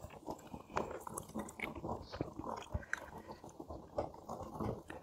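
A person chewing food with irregular crunching bites, several a second.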